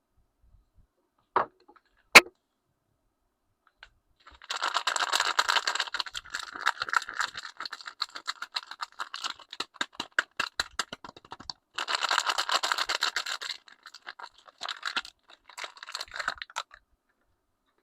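Two sharp taps, then a bar of soap's wrapper being torn open and crinkled in long crackling bursts, with a short break partway through.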